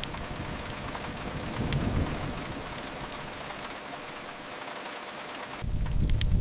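Steady hiss of rain on a window, with only an occasional crackle. About five and a half seconds in, a deep rumble and frequent sharp crackles of a wood fire come back in and grow louder.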